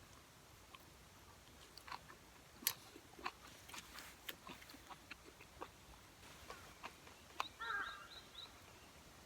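Close-up chewing of grilled chicken-and-leek yakitori, with irregular sharp clicks scattered through it and a short dense cluster near the end.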